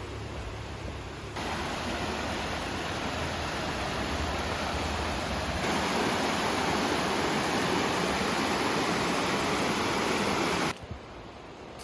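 Steady rush of fast-flowing water, like a waterfall or mountain stream. It gets louder in two sudden steps and cuts off abruptly near the end.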